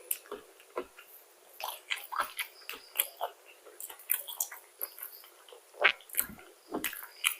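A person chewing and biting food close to the microphone: irregular short, wet smacks and crunches with quiet gaps between.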